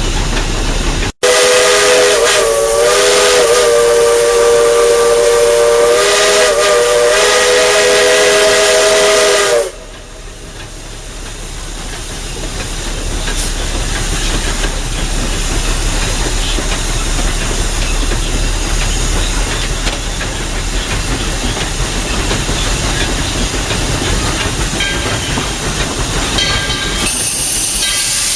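Whistle of Tweetsie Railroad's narrow-gauge 4-6-0 steam locomotive #12, heard from the cab: one long blast of several notes sounding together, about eight seconds, its pitch dipping briefly twice. Then the steady hiss and rumble of the locomotive running, with a high hiss of steam near the end.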